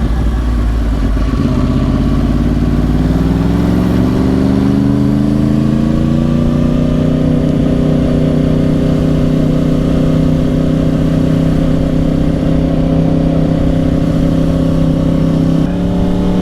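2010 Yamaha R1's crossplane-crank inline-four running through dual Yoshimura exhausts while riding: the revs climb steadily over the first few seconds, then hold steady at cruise, stepping up slightly near the end.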